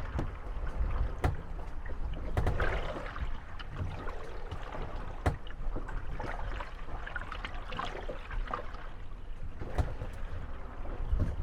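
Moored wooden gondolas rocking on the waves, creaking and knocking against one another, over water lapping at their hulls. Scattered sharp knocks stand out, the sharpest about five seconds in.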